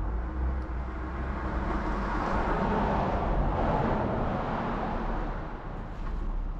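A car driving past on the street, its tyre and engine noise swelling to a peak about three to four seconds in and then fading away.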